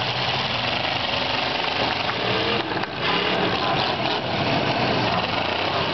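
Demolition derby cars' engines running together, the pitch of some rising and falling as they rev, over a dense steady noise.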